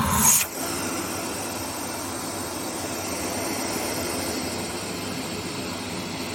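Hoover H-Energy 300 bagged cylinder vacuum cleaner running steadily, with a brief louder rush of air right at the start.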